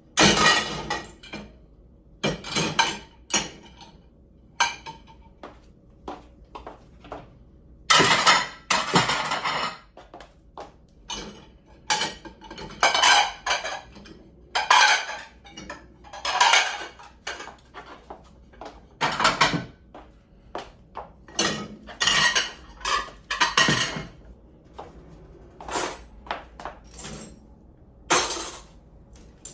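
Dishes and cutlery clinking and clattering as a dishwasher is unloaded: a long series of irregular knocks and rattles, some in quick clusters.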